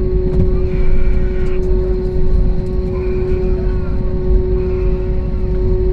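Airbus A321neo cabin noise while taxiing: a steady engine and airflow hum over a low rumble, with faint voices in the background.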